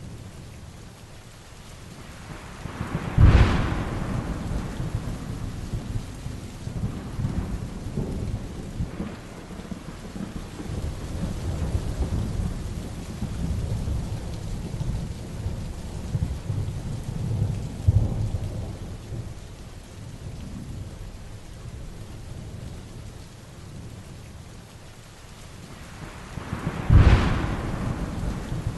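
Heavy rain falling steadily during a thunderstorm. Two sharp, loud thunderclaps, about three seconds in and near the end, each trail off into a low rumble, with quieter rolling thunder in between.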